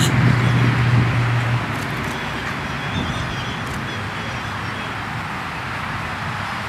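Steady outdoor background noise from the nest camera's microphone, like road traffic, with a low vehicle hum that stops about a second and a half in. A few faint bird chirps come a little later.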